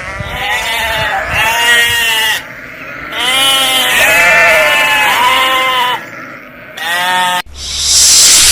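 Sheep bleating, about six wavering calls of roughly a second each. About a second before the end they cut off and a loud steady hiss starts.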